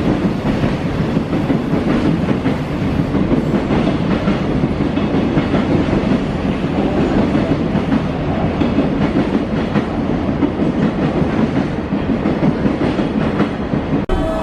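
Freight train rolling past, a steady rumble with the wagons' wheels clicking over rail joints; the sound cuts off suddenly near the end.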